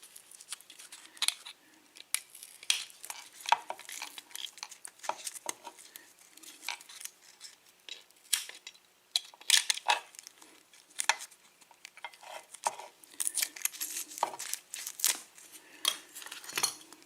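Irregular small metal clicks, taps and scrapes from a disassembled lock cylinder and its key being handled as the key is worked out of it.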